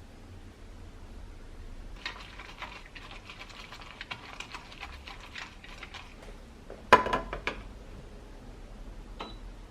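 Kitchen utensils and dishes being handled: a stretch of light, rapid clicking and scraping, then one sharp clack of something set down hard that rings briefly, followed by a few lighter knocks.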